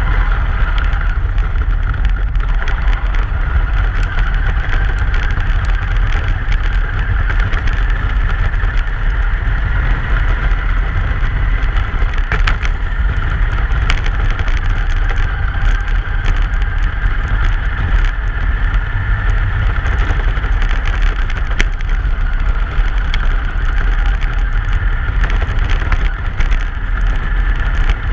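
A truck driving along: a steady, loud low rumble of engine and road noise, with scattered light clicks.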